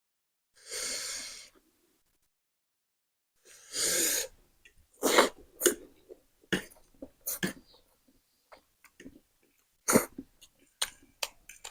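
Throat clearing and coughing with sharp, hissing breaths, the sort of reaction brought on by eating very spicy noodles. There are two longer hissing breaths, then a run of short sharp coughs.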